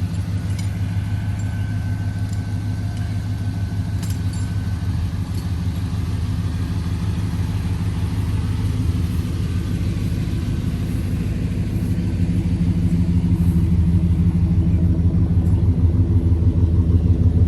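Car engine idling steadily, a little louder in the last few seconds.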